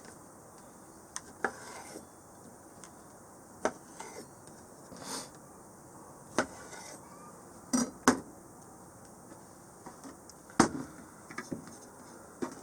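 Metal cookware and utensils clinking and knocking as they are handled, in scattered separate strikes, the loudest about eight and ten and a half seconds in.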